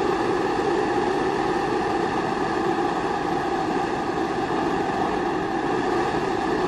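Kerosene pressure stove (Primus-type babour) burning steadily: an even, unbroken rushing noise of the pressurised burner flame.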